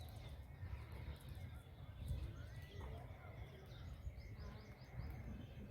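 Faint chirping of small birds over a steady low background rumble, with a short run of quick chirps about four seconds in.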